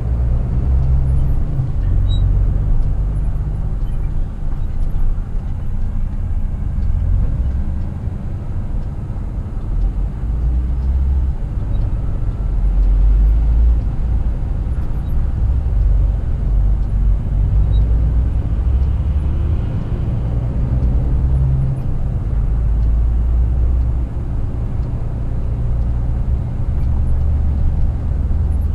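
Scania R450 truck's 13-litre six-cylinder diesel engine pulling at highway speed, with road rumble, heard from the driver's cab. A steady low rumble rises and falls a little in strength.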